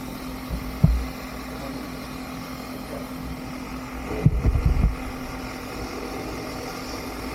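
Cab of a standing three-truck Shay steam locomotive: a steady low hum with a few dull low thumps, one about a second in and a short cluster a little past four seconds.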